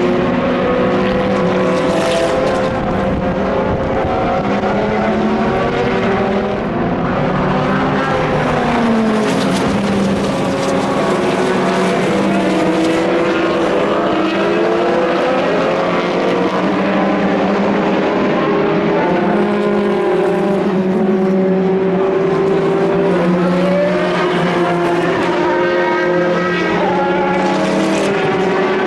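Several endurance race car engines running at once at high revs, their notes overlapping, with pitches sliding up and down as the cars pass.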